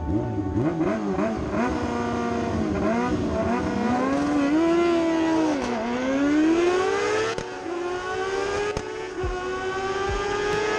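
Pickup truck engine through a homemade cat-back exhaust, revving up and down. About six seconds in the pitch drops, then climbs steadily to near the end as it accelerates.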